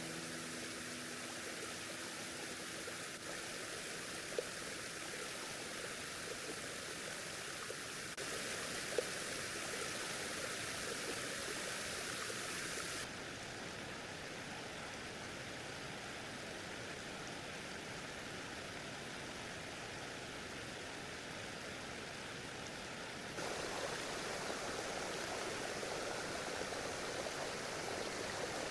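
Stream water rushing steadily, its sound changing abruptly three times as the shot changes, with a couple of small clicks.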